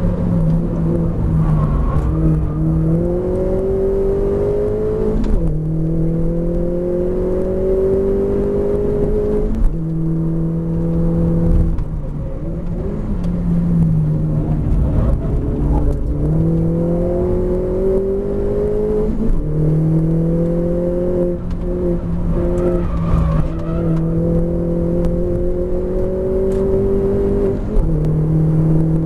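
Mini R56 race car's four-cylinder engine heard from inside the cockpit at full throttle on a flying lap, its pitch climbing through each gear and dropping at every upshift. About halfway through the pitch falls under braking for a slow corner, then climbs through the gears again.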